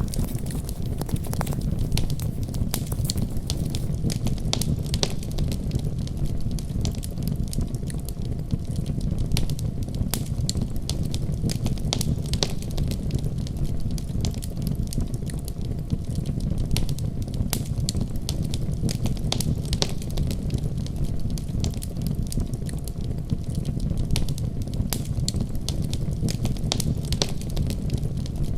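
Fireplace fire crackling: a steady low rumble of flames with many sharp, irregular pops and crackles throughout.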